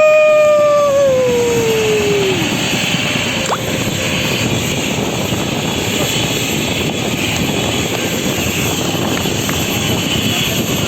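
Bell 505 Jet Ranger X helicopter running close by: a steady rush of rotor and turbine noise, with a high whine that falls in pitch over the first two seconds or so and fades out.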